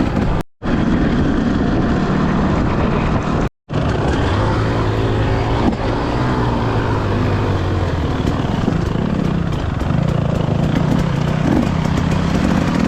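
Trail motorcycle engine running under load along a forest track, its pitch rising and falling with the throttle over steady wind and ground noise. The sound cuts out completely twice, briefly, about half a second in and again about three and a half seconds in.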